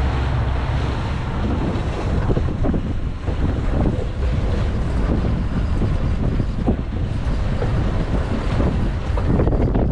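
Wind buffeting the microphone in an 18-knot blow, a loud steady rumble, with choppy water slopping around a small boat.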